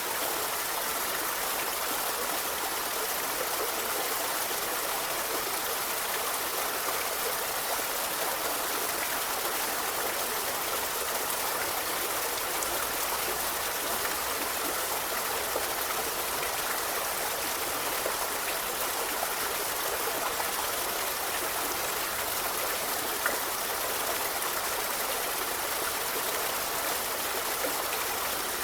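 A forest river flowing steadily: a continuous rushing, babbling wash of water, heavy in the higher range with little low rumble.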